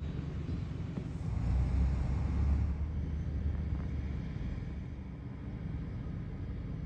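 Low outdoor rumble with wind buffeting the microphone, swelling about a second and a half in and easing off after about three seconds.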